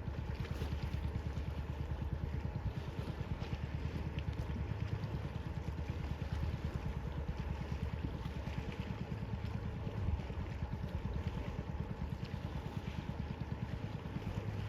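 Boat engine running steadily with a fast low throb, over wind and water noise.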